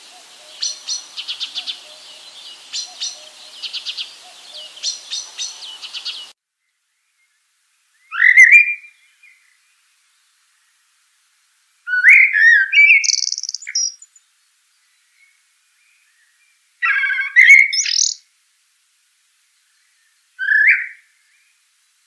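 Songbirds singing: a fast run of twittering chirps over a light background hiss, which cuts off about six seconds in. Then a bird sings four short, separate phrases of rising whistled notes against a clean, silent background.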